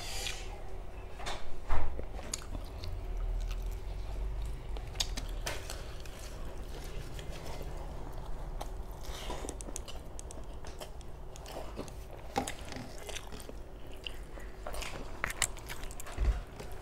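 Close-miked chewing and lip-smacking of a mouthful of curry-mixed rice, with many short wet clicks and the loudest smack a little under two seconds in. Fingers squish and mix rice against a steel plate.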